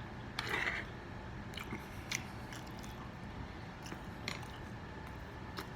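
A person chewing and eating food close to the microphone. There is a short noisy burst about half a second in and a few sharp clicks scattered after it.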